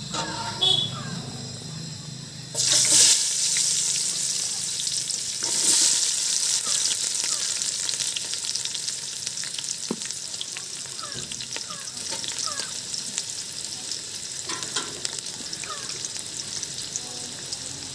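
Food frying in hot oil in a pan: a loud sizzle bursts up about two and a half seconds in, surges again about three seconds later, then settles into steady sizzling with the light scrape of stirring.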